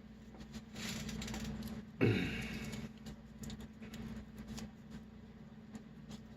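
Close handling sounds of masking tape being peeled off a plastic model: a brief rustle, a sudden knock about two seconds in, then scattered light ticks, over a steady low hum.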